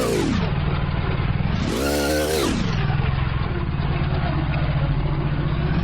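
Small 80cc two-stroke bicycle engine running under throttle. Its revs drop sharply at the start, rise and fall once in a short blip about two seconds in, then hold low and steady. It lacks the power for a hard berm turn.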